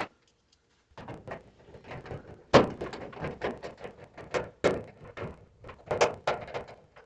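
Irregular clunks, scrapes and rattles of a clothes dryer's sheet-metal cabinet being handled as it is fastened back together, with a sharp knock about two and a half seconds in.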